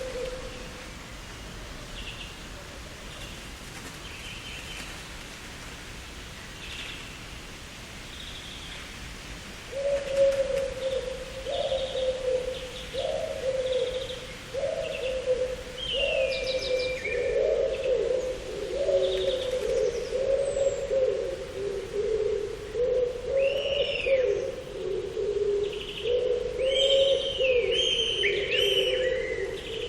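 Garden birdsong: scattered high chirps throughout. From about ten seconds in, a low call repeats every second or so and grows nearly continuous, with busier high warbling near the end.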